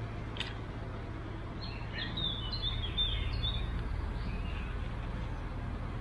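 A bird sings a short phrase of quick, high chirps, about two seconds long, over a steady low rumble. A single click comes about half a second in.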